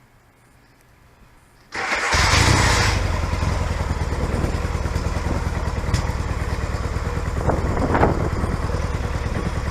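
A 1978 Yamaha XS650's parallel-twin engine starting: it catches about two seconds in with a brief burst of noise, then settles into a steady idle.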